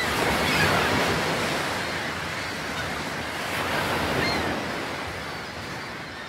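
Sea surf washing onto a beach: a steady rush of waves that swells twice and eases off toward the end.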